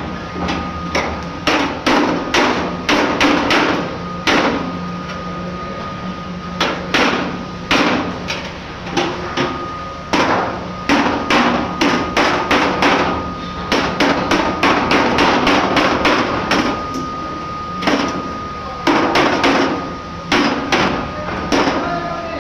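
A hammer striking sheet-metal HVAC duct in quick runs of blows, several a second, with short pauses between the runs, as the duct seams and edges are hammered into shape.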